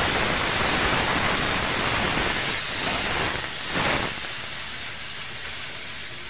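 Chopped onion and tempering sizzling in hot oil in a kadhai: a steady frying hiss that swells briefly near four seconds, then settles lower.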